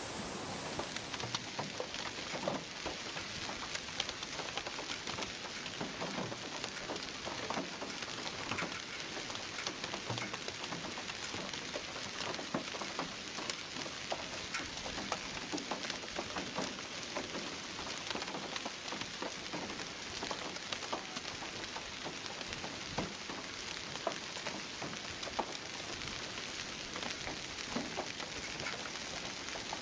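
Heavy rain falling on hard surfaces: a steady hiss dotted with many sharp drop hits.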